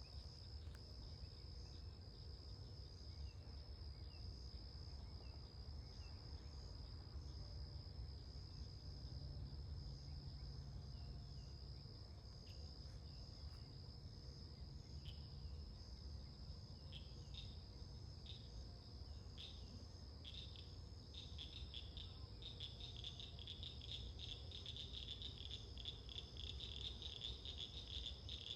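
Night chorus of frogs and insects: a steady high-pitched trill throughout, joined about halfway by a fast, repeated chirping call that grows denser toward the end.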